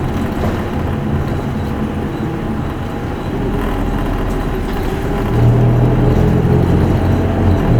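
Isuzu Erga Mio city bus's diesel engine running, heard from inside the passenger cabin over road noise. About five seconds in, the engine note grows louder as it pulls harder.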